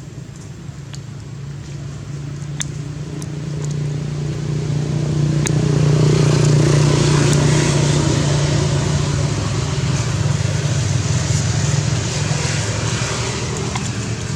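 A motor vehicle's engine running, growing louder over the first few seconds and then holding steady, with a few faint clicks.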